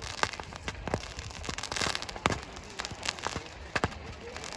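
Fireworks going off: an irregular run of sharp bangs and pops, with a burst of crackling about two seconds in.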